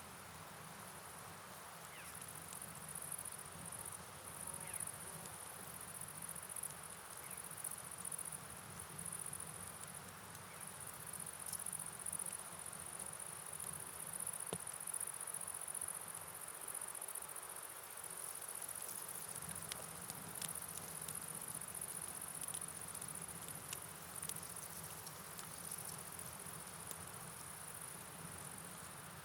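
Rain-and-river ambience: an even hiss of rainfall and flowing water with scattered drip ticks, under a high, continuous insect trill.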